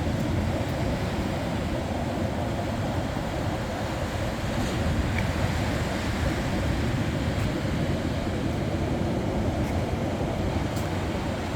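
Sea waves on a beach: a steady rush of surf with a deep low rumble.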